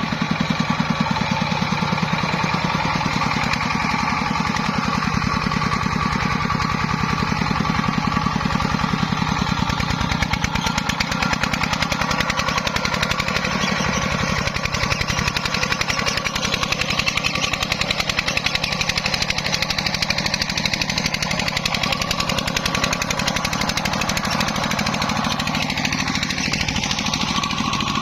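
Single-cylinder diesel engine of a công nông farm truck running steadily with a fast, even chugging.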